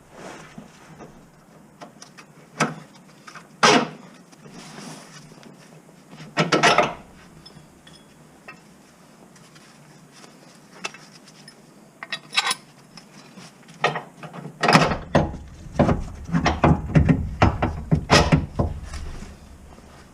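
Metal tools and parts clinking and knocking during work on a van, a scatter of separate knocks and clinks, then a dense run of rapid clicks and knocks over the last few seconds.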